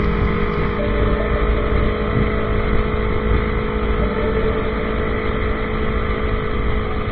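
Yamaha YZF-R25 motorcycle engine running at a steady speed on the road, a constant drone with wind rushing over the microphone.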